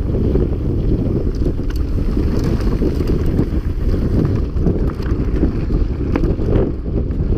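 Wind buffeting the microphone of a camera on a mountain bike descending at speed, a heavy steady rumble, with scattered clicks and rattles from the bike on rough ground.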